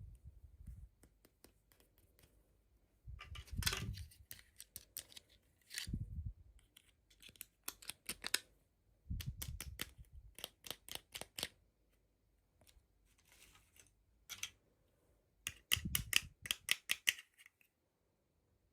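Handling noise from opening toy packaging: clusters of sharp clicks and crackles, each a second or two long, with dull low thumps under several of them.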